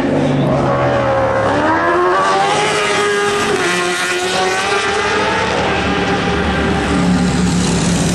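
Superbike racing motorcycles at full throttle, several engine notes overlapping. Their pitch rises over the first couple of seconds, then holds at high revs.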